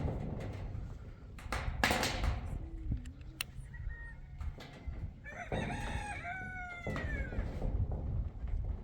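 A rooster crows once, beginning about five seconds in, in a call of close to two seconds that falls in pitch at the end. A short loud rustle or knock comes about two seconds in.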